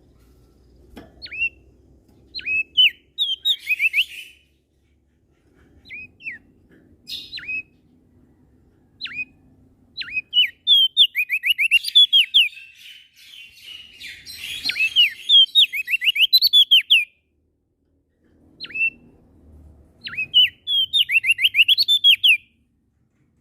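A prenjak daun songbird singing in bursts of quick, short, downward-slurred high whistled notes, with a dense run of rapid notes about halfway through. A faint low hum sits underneath at times.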